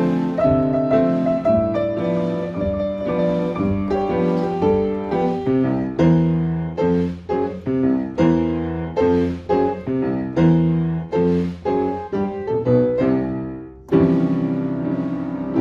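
Piano music: a run of struck notes and chords in a regular rhythm, each note fading after it is struck.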